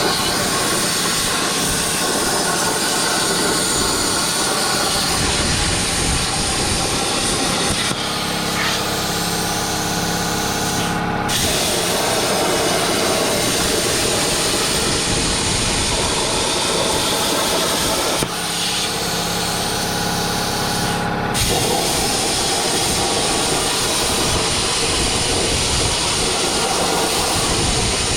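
Plasma cutter on a CNC plasma table cutting steel with a loud, steady hiss. The arc stops twice for about three seconds, and each time a steady humming tone is heard while the torch is not cutting.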